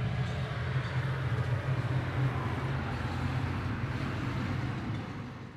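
A steady low hum with a broad hiss over it, fading away near the end.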